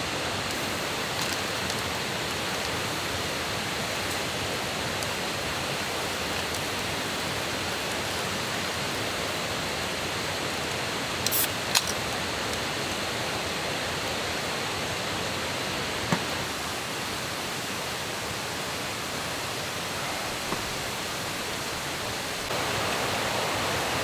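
Steady rushing of flowing stream water, with a few light clicks near the middle; the rushing gets a little louder near the end.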